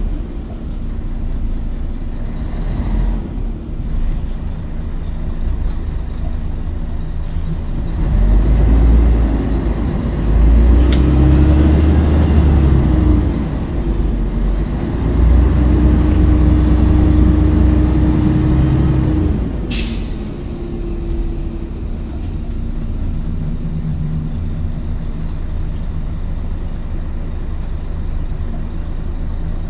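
Scania L113CRL bus's 11-litre six-cylinder diesel running steadily, then about eight seconds in pulling away under load, its note rising twice with a dip between as it changes gear. A short sharp air hiss from the air brakes comes near twenty seconds, after which the engine settles back to a steadier, lower note.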